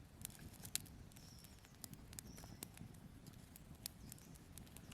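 Small twig campfire crackling: irregular sharp pops and ticks, two louder pops a little under a second in and near the four-second mark.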